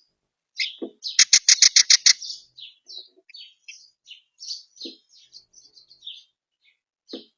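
Small garden songbirds chirping close by, with a loud rapid run of about eight notes about a second in, followed by scattered short high chirps.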